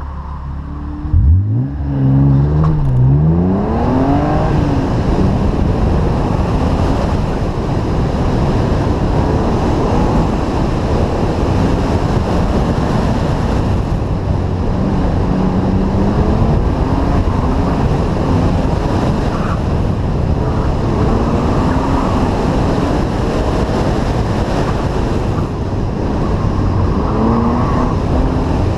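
1998 BMW E36 M3's straight-six engine run hard at around 4,500–5,500 rpm, its pitch climbing and dropping as the car accelerates and lifts between cones. About a second in the revs climb sharply.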